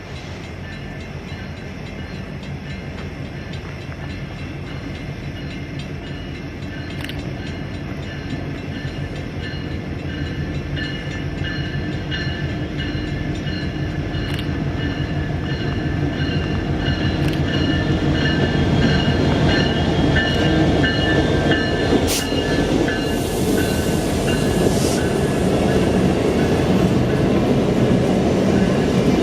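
Passenger train cars rolling along the track, heard from aboard as a steady rumble that grows louder. From about halfway, high wheel squeal joins in, and there are a few sharp clicks.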